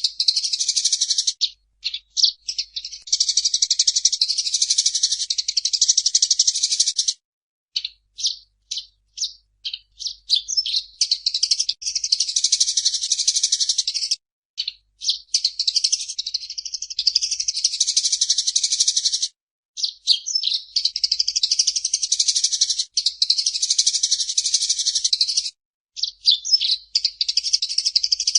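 Eurasian tree sparrow chattering: rapid high-pitched chirps run together into long bursts of several seconds, broken by short pauses and scattered single chirps.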